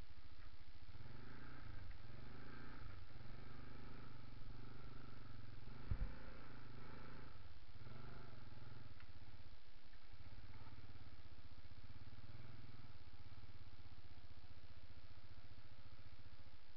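A vehicle engine running, its pitch rising and falling, with a sharp knock about six seconds in; the engine sound dies down in the last few seconds.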